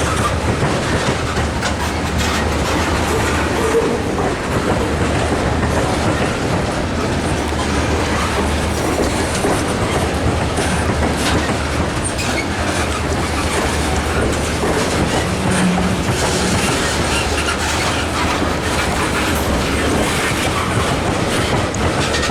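Long freight train of tank cars rolling slowly past, its wheels clacking steadily over the joints of a railroad diamond crossing.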